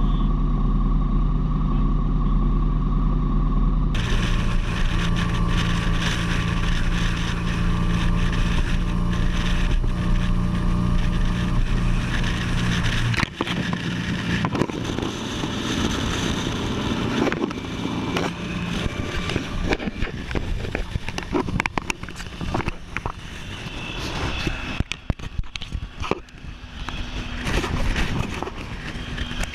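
Triumph Sprint ST 1050 motorcycle's three-cylinder engine running at a steady speed. About 13 seconds in, the sound turns rougher: a noisy rush of wind with crackles on the microphone over the fainter engine.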